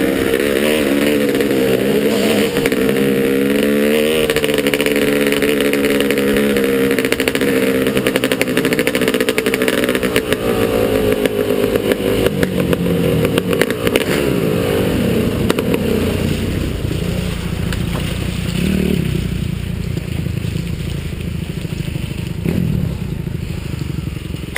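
Motocross bike engine revving up and down, its pitch rising and falling for about the first fourteen seconds. After that the engine note drops away into a low rumble with rattling.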